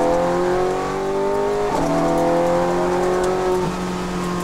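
Ferrari 430 Scuderia's V8 engine heard from inside the cabin, accelerating with its pitch rising. A quick break for an upshift comes about one and a half seconds in, then the pitch climbs again and levels off near the end.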